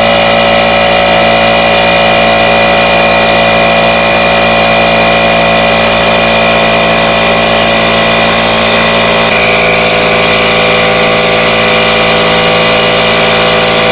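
Vacuum cleaner motor running loudly and steadily with a whine over a rush of air, as compressed air is blown up into a tankless water heater's finned heat exchanger to clear combustion soot while it is vacuumed away. The tone shifts slightly about nine and a half seconds in.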